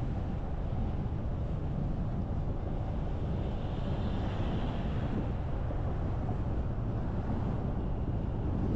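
Steady low rumble of road and wind noise from a car driving, with a faint hiss that swells briefly around the middle.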